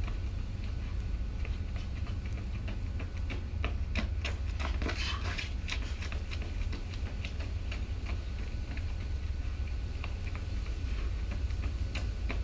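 Wind buffeting the microphone in a steady low rumble, with scattered light ticks and taps that come thickest about four to five seconds in.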